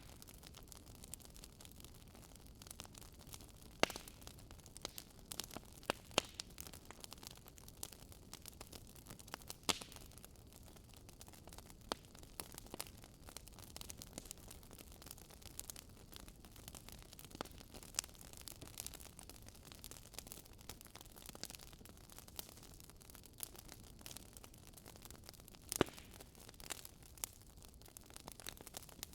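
Wood fire crackling: irregular sharp pops and snaps over a faint, steady hiss, with a louder pop about four seconds in and another near the end.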